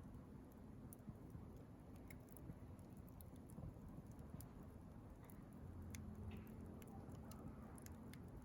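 Wood bonfire crackling faintly: scattered small pops and ticks at irregular intervals over a low steady rumble.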